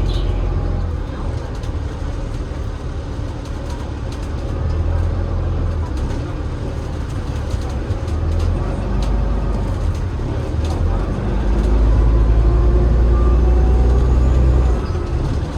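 Double-decker bus's Cummins ISL8.9 diesel engine running with a deep, steady rumble. It grows louder about twelve seconds in and eases off again just before the end.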